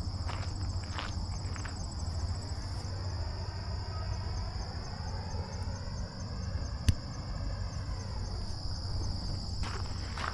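Steady, high-pitched chorus of insects trilling with a fast even pulse. A few footsteps sound near the start and again near the end, with one sharp click about seven seconds in.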